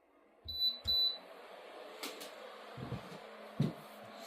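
Air purifier beeping twice as it is switched on, then its fan running with a steady rush of air. A couple of soft low thumps sound over it.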